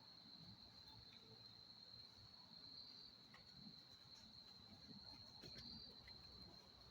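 Faint, steady chorus of crickets: one continuous high trill that holds its pitch without a break.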